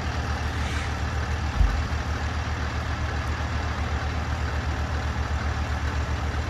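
Heavy tow truck engine running steadily with a low, even rumble. A single low thump about a second and a half in.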